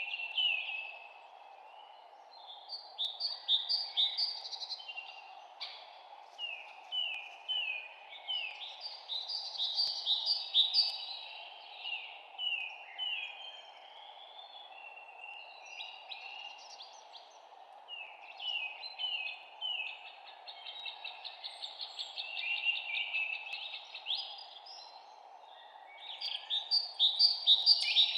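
Several songbirds chirping and trilling in quick runs of short notes, phrase after phrase with brief pauses, over a faint steady background hiss.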